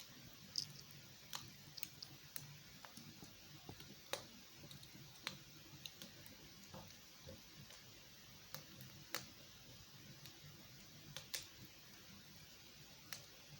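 Wood fire crackling in a fireplace: sparse, irregular sharp pops and snaps over a faint hiss.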